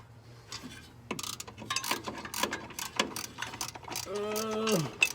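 Hand ratchet wrench clicking in uneven runs as bolts on an engine are worked.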